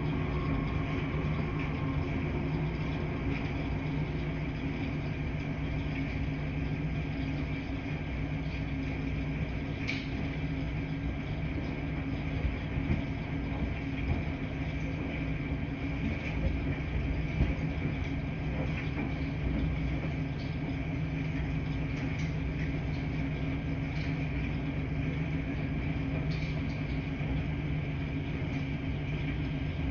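Steady mechanical hum of laundry machines running in a laundry room, with a few faint clicks about ten seconds in and again a little later.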